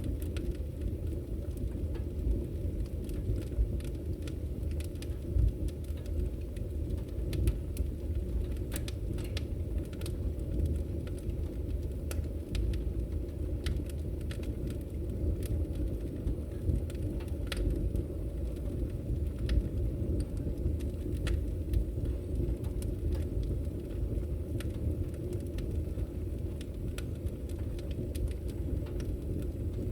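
Log fire in a fireplace crackling: frequent sharp pops and snaps, irregularly spaced, over a steady low rumble of burning.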